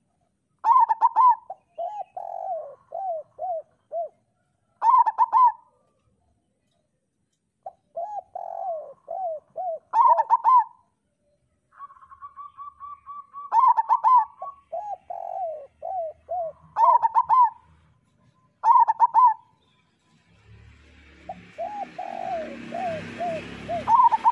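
Zebra doves (perkutut) cooing: phrases every two to four seconds, each a quick cluster of high coos followed by a falling string of softer, shorter notes. Near the end a rush of noise rises under the song.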